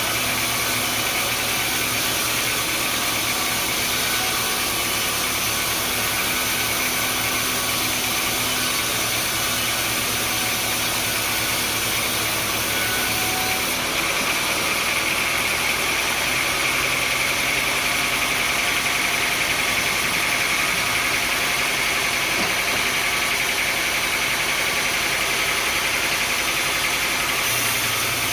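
Sawmill machinery running steadily. About halfway through its low hum shifts, and a high whine grows stronger.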